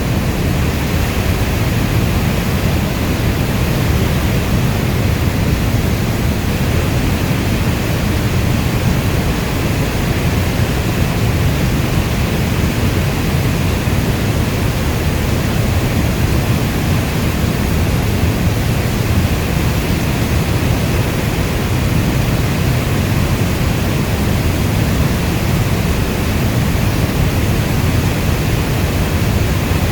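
Steady rainstorm ambience: an even, deep rushing of heavy rainfall, weighted toward the low end, with no thunder or separate drops standing out.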